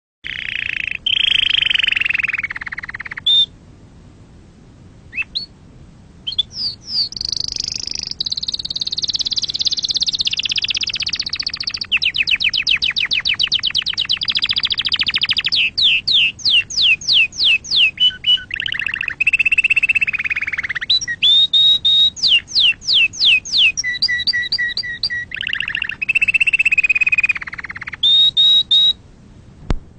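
Domestic canary singing a long song: a chain of fast rolling trills and rapidly repeated sweeping notes, with a short lull about four seconds in and a brief break near the end.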